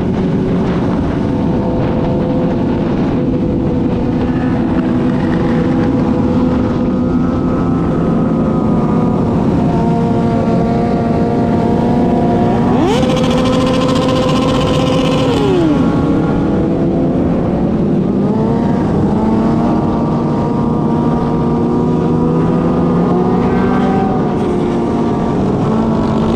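Several motorcycle engines running at speed together, their pitch rising and falling with the throttle. About halfway through, one engine revs sharply up, holds high for a couple of seconds, then drops back.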